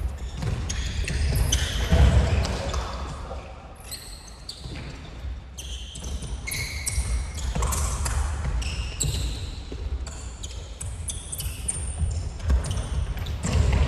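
Futsal being played on an indoor gym floor: the ball thudding as it bounces and is kicked, and many short, high sneaker squeaks.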